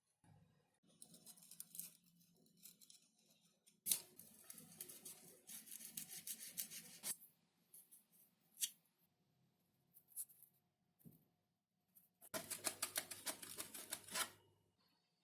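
Thin XPS foam sheet being worked by hand. There are two runs of rapid scratchy strokes, about four seconds in and again about twelve seconds in, with a few single clicks between them.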